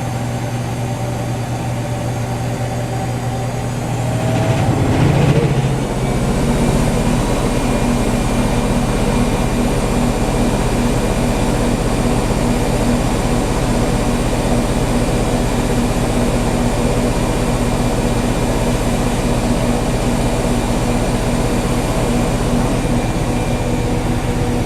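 Whirlpool Duet Sport front-load washer ramping into its high-speed final spin: the motor's hum shifts pitch about four to six seconds in, then settles into a steady pitched whine with a fast, even pulsing from the spinning drum.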